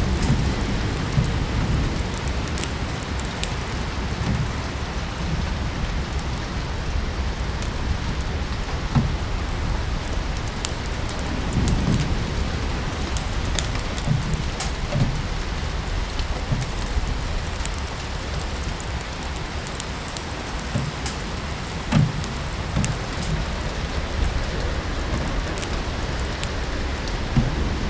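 Steady rain falling, with the scattered sharp pops and crackles of a wood fire in a fireplace over it.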